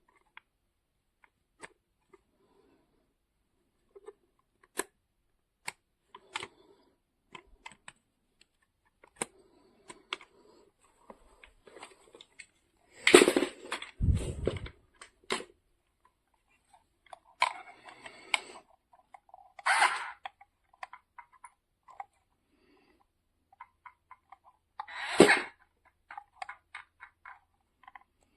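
Scattered light clicks and knocks with gaps between them, and a few louder clattering handling noises about 13 seconds in, near 20 seconds and about 25 seconds in.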